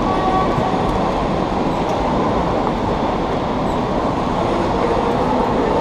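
Steady, loud rumbling and rushing noise with no break, with a few faint held tones above it.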